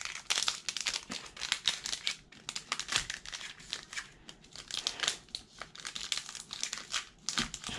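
Foil wrapper of a Pokémon TCG booster pack crinkling and crackling in irregular bursts as hands try to pull and tear it open, the pack resisting.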